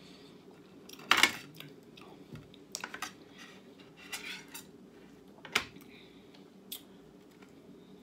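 Cutlery clinking and scraping on a plate while eating, with a sharp clatter about a second in and lighter clicks after it, over a steady low hum.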